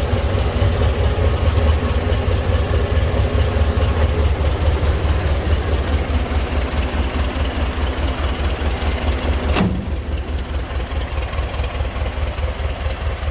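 1926 Ford Model T's inline four-cylinder engine idling steadily with a fast, even low pulse. A single sharp click comes near the end, after which it runs a little quieter.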